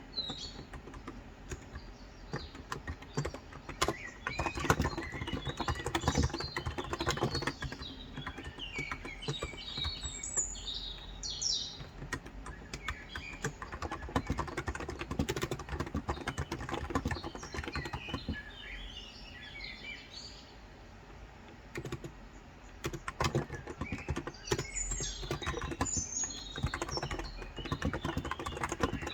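Typing on a Cox Endeavour electro-capacitive tenkeyless keyboard with 35 g switches, in runs of keystrokes with a short pause a little after two-thirds through. Birds chirp in the background now and then.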